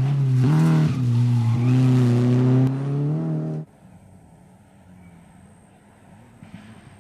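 Rally car engine running hard at high revs, its pitch dipping and rising again, then cutting off abruptly about halfway through, leaving only faint background noise.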